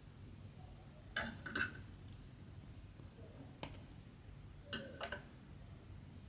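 Light clicks and taps from handling cross-stitch materials and tools: a pair a little after a second in, one sharp click midway, and another pair near the end, over a low steady hum.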